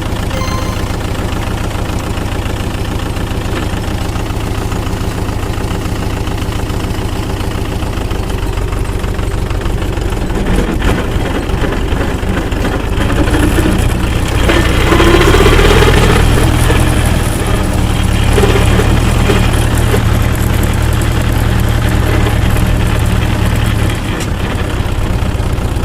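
Tractor engine running steadily, its speed and loudness building from about ten seconds in, then dropping back sharply a couple of seconds before the end.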